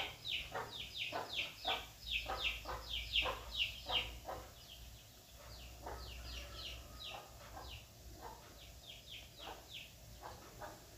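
Small birds chirping: a rapid run of short peeps, each falling in pitch, about three a second. They are loudest for the first few seconds, then go on more faintly.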